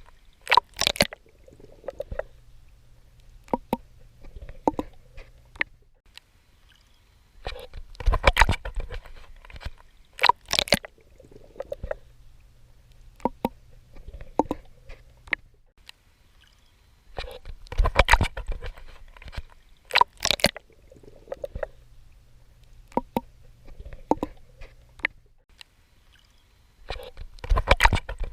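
Swimming strokes splashing and sloshing in water, in clusters that come back about every nine to ten seconds. A low steady hum fills the quieter stretches between them.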